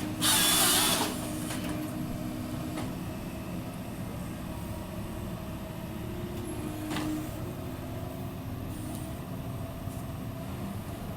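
A small excavator-based forestry harvester's diesel engine runs steadily. A short, loud hiss comes in the first second, like air or hydraulic pressure being let off.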